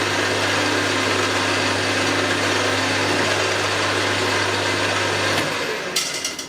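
Milling machine running steadily with a low hum while drilling 7/16-inch holes in a steel plate, then switched off about five and a half seconds in and spinning down.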